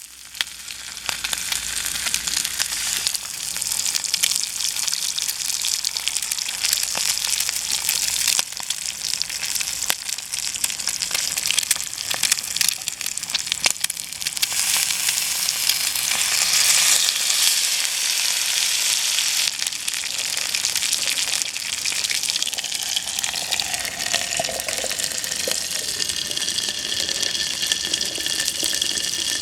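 Thick-cut bacon sizzling steadily in a skillet over a wood-stove fire, with scattered crackles and pops.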